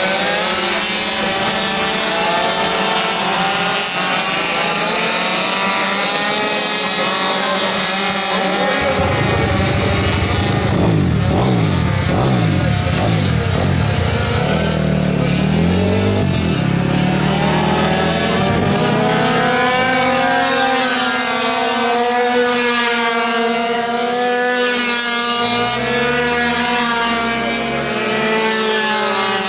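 Several minimoto pocket bikes' small two-stroke engines running at high revs, their overlapping whines rising and falling in pitch as the bikes accelerate and brake.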